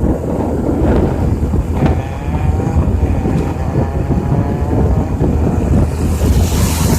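Wind buffeting the microphone: a loud, gusting low rumble that rises and falls unevenly.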